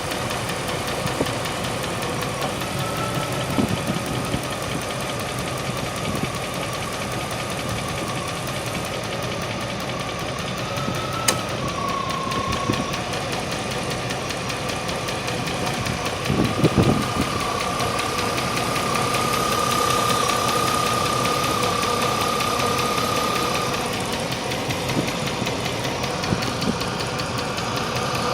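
Range Rover P38 V8 engine running with a heavy, regular tick that the owner judges to be at valve speed; he is weighing it against a slipped cylinder liner. A brief, louder thump comes a little past the middle.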